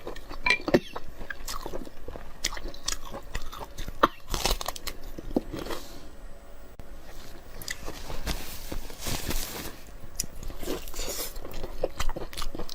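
Close-miked mukbang eating: a person biting and chewing food with irregular crunches and wet mouth clicks.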